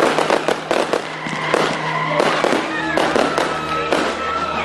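Fireworks going off in a rapid, irregular string of bangs and crackles.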